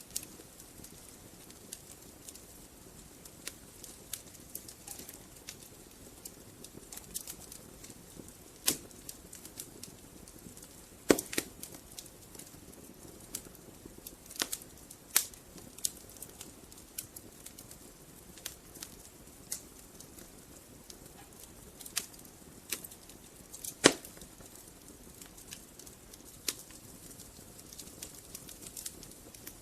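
Wood-burning fireplace crackling: irregular sharp pops and snaps of burning logs over a low steady hiss of flame. The two loudest pops come about eleven and twenty-four seconds in.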